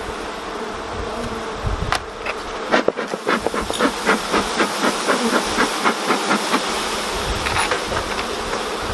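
Honeybees buzzing around an opened hive, with a bee smoker's bellows puffing smoke in quick regular pumps, about three a second, starting about three seconds in.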